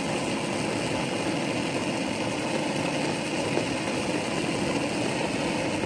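Heavy rain pouring down on a camping tarp overhead: a steady, even rushing noise with no let-up.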